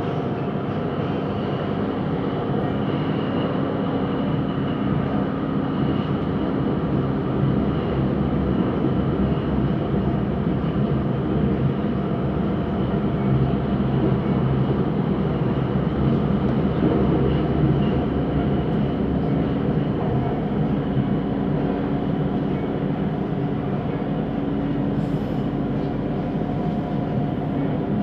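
Siemens Inspiro metro train running at speed, heard from inside the carriage: a steady rolling noise from the wheels on the rails, with a steady hum of several tones over it that swells slightly midway.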